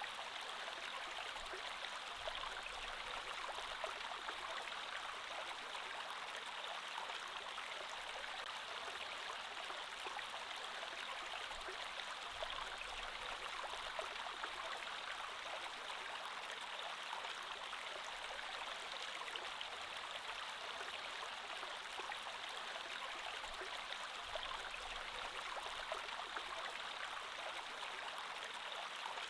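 Creek water flowing steadily over stones, an even rushing with small splashes and gurgles.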